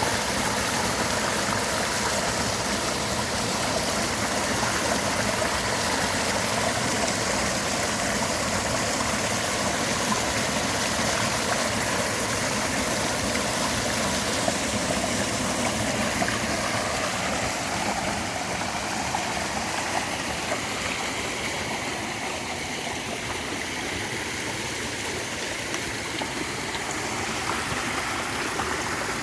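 Clear mountain stream flowing steadily, a continuous rush of water that eases off a little past the middle.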